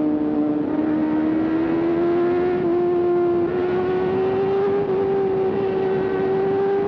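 Kawasaki ZX-4RR's high-revving inline-four running at a steady, high-pitched note that climbs slowly as the bike pulls.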